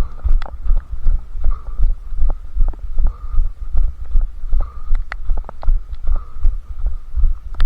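A runner's footfalls thudding steadily, about three strides a second, picked up by a head-strapped camera. Scattered sharp ticks sound over the thuds.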